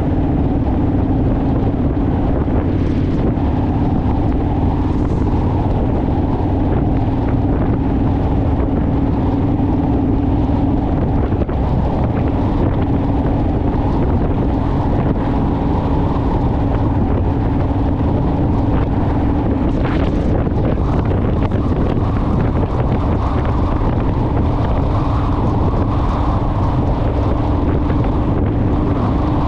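Honda Rebel motorcycle's parallel-twin engine running steadily at cruising speed, a constant drone under rushing wind buffeting the microphone.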